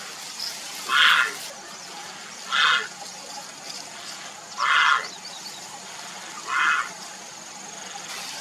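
Grey heron calling for a mate: four short calls, one about every two seconds.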